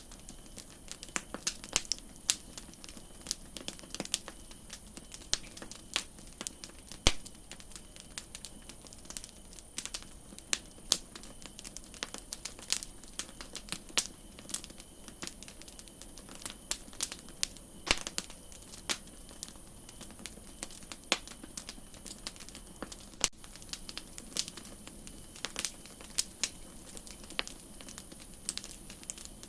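Campfire crackling: irregular snaps and pops of burning wood over a faint steady hiss.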